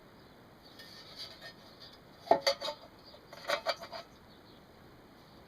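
Clinks and clatter of hard metal objects being handled and set down, in two short clusters about a second apart, the first the loudest, after some light rustling.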